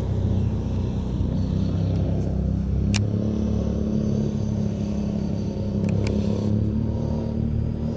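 Boat motor running at a steady pitch, with a sharp click about three seconds in.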